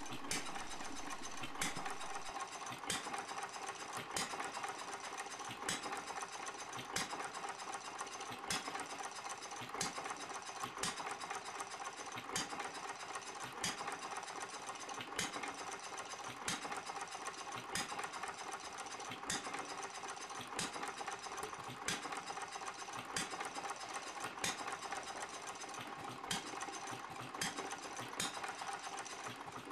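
A quarter-scale Red Wing hit-and-miss model engine running steadily: a steady mechanical clatter with sharp pops recurring at intervals of a little over a second.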